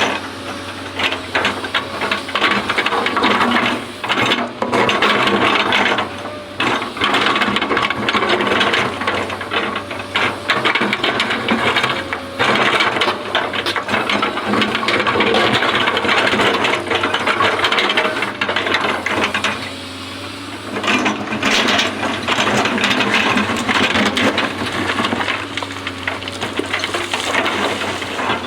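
Excavator at work: its engine runs with a steady low hum under continuous clattering, scraping and crunching of the bucket working material, easing briefly a few times.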